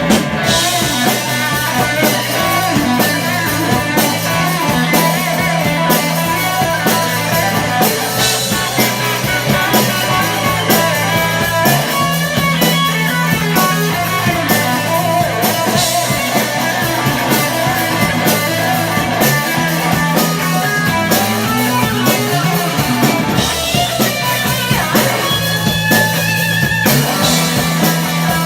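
Rock band playing live: electric guitars over bass guitar and drum kit, with steady cymbal strokes, in a passage without singing.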